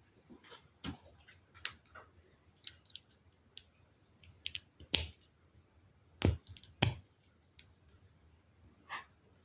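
Plastic LEGO Technic pieces clicking and snapping together during assembly, with irregular small clicks and a few louder snaps about five, six and seven seconds in.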